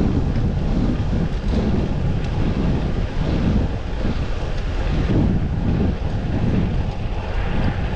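Wind buffeting the microphone of a camera riding along on a moving road bicycle: a loud, steady low rumble that swells and dips every second or so.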